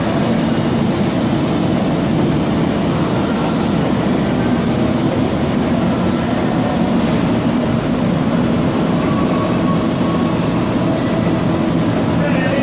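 Large industrial lathe, a Lodge & Shipley 60-inch T-lathe, running under power: a steady machine hum with a low drone and no change in speed.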